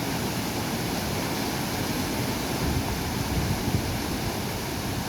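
A swollen monsoon-flood river rushing: a steady, full-range noise of fast-flowing water with no break.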